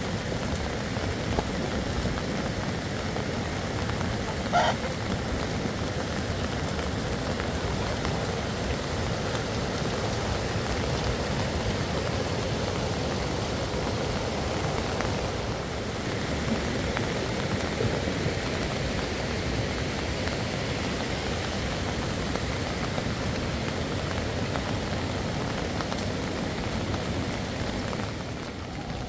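Steady hiss of rain and rushing muddy floodwater. A brief high-pitched call cuts through about four and a half seconds in.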